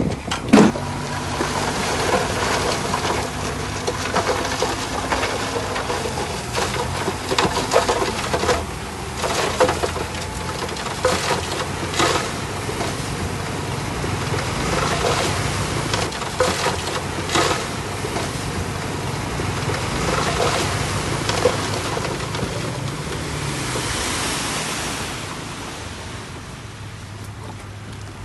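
Komatsu D51PX bulldozer's diesel engine running steadily, with repeated metallic clanks and knocks. There is a loud knock about half a second in, and the engine eases off near the end.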